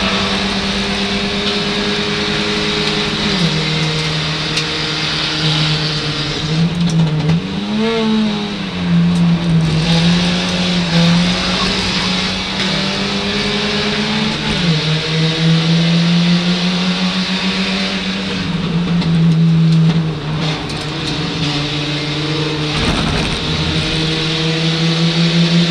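Ford Fiesta race car's Zetec four-cylinder engine heard from inside the cabin, running hard at racing revs. Its pitch steps and slides up and down several times with gear changes and braking for corners, including a quick rise and fall about eight seconds in.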